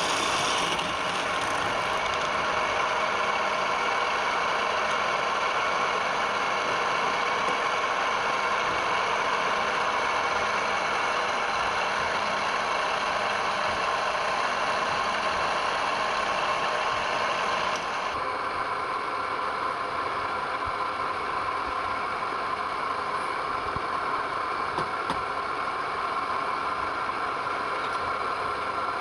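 Wood lathe running steadily: an even motor hum and whine over a hiss. About eighteen seconds in the higher hiss drops away suddenly while the hum carries on.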